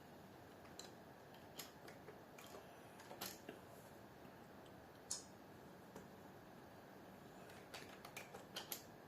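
Faint, irregular clicks of keys being typed on a computer keyboard, about a dozen spread over several seconds, over a low steady hiss.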